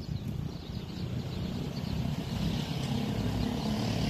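Diesel-hauled passenger train running in the distance: a low rumble, with a steady engine hum that grows stronger in the second half.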